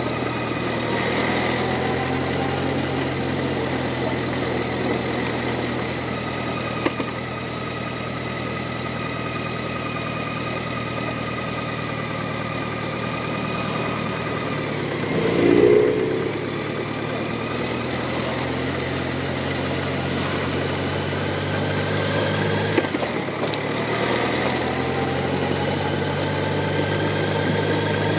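BMW K1100LT's inline-four engine running at low speed in slow traffic, pitch rising gently near the end as it picks up speed. A brief louder sound comes about halfway through.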